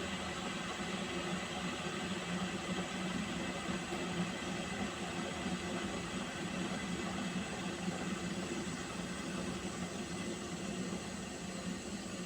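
Pot of water heating on a stove, giving a steady hiss with a low hum under it.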